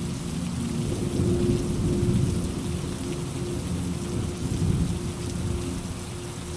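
Steady rain hiss with low rolling thunder that swells about a second in and again near five seconds.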